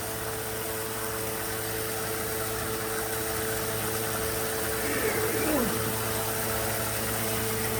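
Small submersible sump pump running steadily with a constant hum, circulating vinegar through a tankless water heater to flush out scale.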